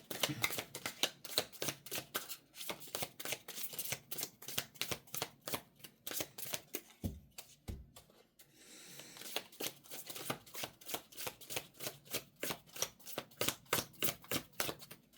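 Tarot cards being shuffled by hand: a long run of quick card flicks, several a second. About seven seconds in the shuffling stops briefly for two soft low knocks, then carries on.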